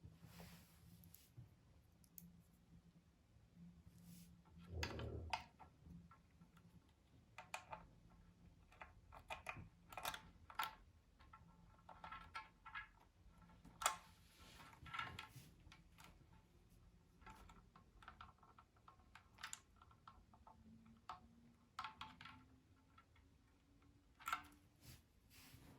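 Scattered light clicks and taps of small parts and tools being handled during the controller swap, with a duller knock about five seconds in.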